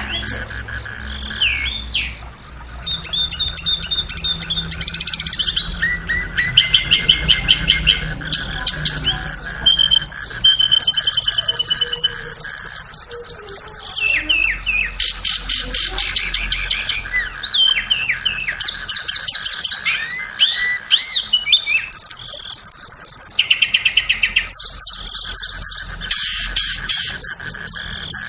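Tledekan (blue flycatcher) song in rapid, varied high-pitched phrases, with fast trills and chirps following one another almost without pause. A steady faint tone runs underneath.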